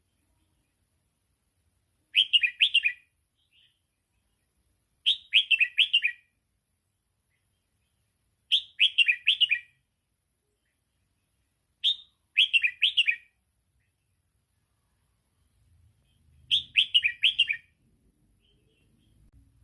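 Red-whiskered bulbul singing a short warbled phrase, repeated five times at intervals of about three to four seconds. It is the 'double' style of song line that is played to young bulbuls so they learn to sing.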